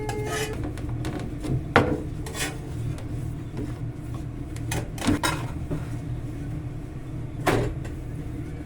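Kitchen clatter while cooking chapatis: several separate knocks of pans and utensils, spread out irregularly, over a steady low hum.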